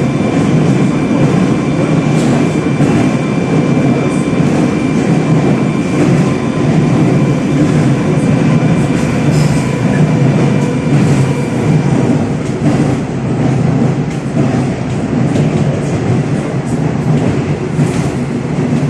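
Moscow Metro 81-740/741 Rusich train running through a tunnel, heard from inside the car: a steady loud rumble of wheels on rails with faint clicks. A high steady whine runs with it and stops about two-thirds of the way in.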